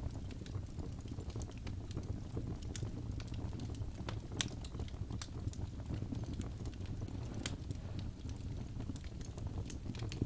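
Wood fire burning in a fireplace: a steady low rumble of the flames with irregular sharp crackles and pops from the burning wood, the loudest pops about four and a half and seven and a half seconds in.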